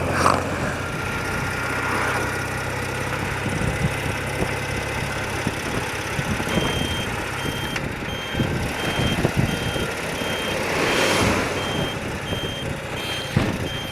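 BMW motorcycle running on the road with wind and road noise. From about halfway through, the indicator bleeper beeps steadily, about two short high beeps a second, to signal that the indicators are on.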